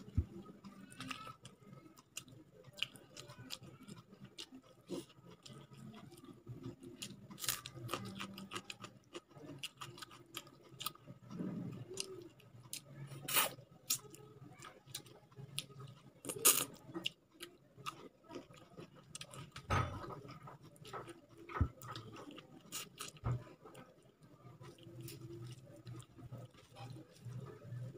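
Close-up eating sounds: chewing with wet mouth smacks and sharp clicks at uneven intervals, along with fingers squishing and mixing rice and curry.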